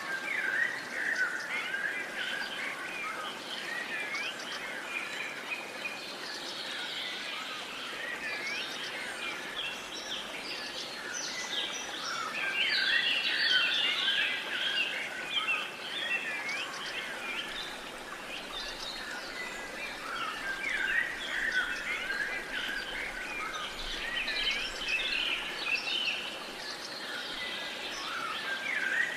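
Many songbirds calling and singing at once, a dense mix of chirps and short rising and falling whistles over a steady background hiss, busiest around the middle.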